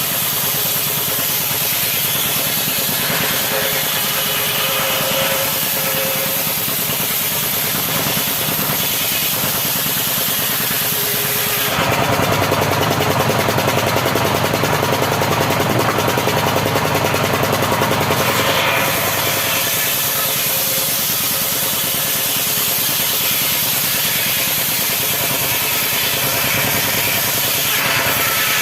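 Power saw cutting acacia wood, running steadily. It grows louder and fuller for several seconds in the middle.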